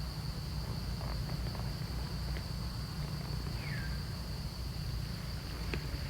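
Steady high-pitched insect drone over a low rumble, with a short falling squeak about three and a half seconds in and a sharp click near the end.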